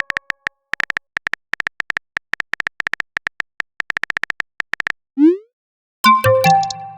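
Phone-keyboard typing sound effect: rapid, irregular tapping clicks. About five seconds in comes a short rising bloop, the message-sent sound. A second later a ringing message-notification chime follows and fades out.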